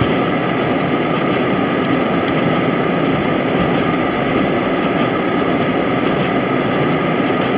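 Steady road and engine noise inside the cabin of a V6 Dodge Challenger driving slowly on a snow-covered road.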